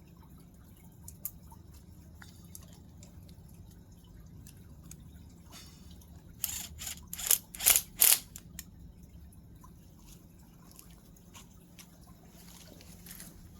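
Scattered light clicks and taps, with a brief run of louder clattering about six and a half seconds in, over a low steady hum.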